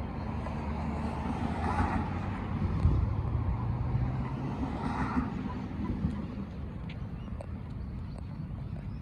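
Road traffic on a highway: vehicles passing with a low engine hum and tyre noise that swells about two seconds in and again about five seconds in.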